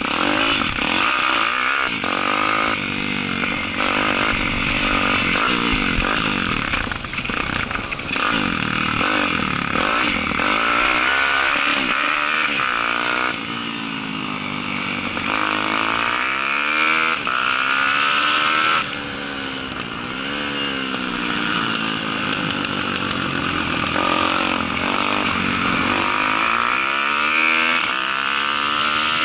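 Four-stroke Daytona 190 pit bike engine at race pace, its pitch rising and falling again and again as the rider opens and closes the throttle through a run of corners.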